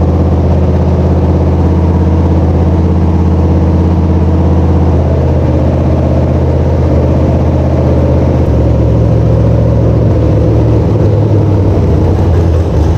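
Freshly installed small-block Mopar 318 V8 running steadily on its first start and break-in. The engine speed shifts a little past the halfway point.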